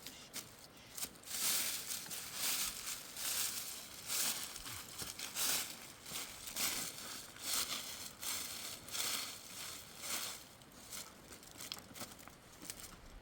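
Slow crunching steps on dry ground or dry vegetation, about one crunch a second.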